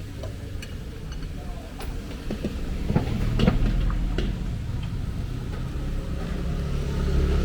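A motor vehicle engine running close by, its low hum building from about three seconds in, with a few sharp metal clinks.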